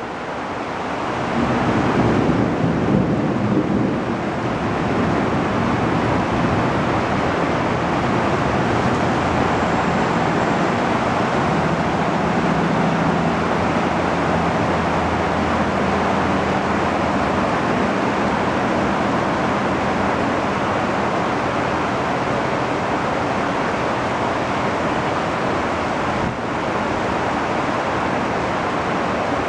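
Heavy tropical rain pouring down in a dense, steady hiss that swells over the first two seconds and then holds.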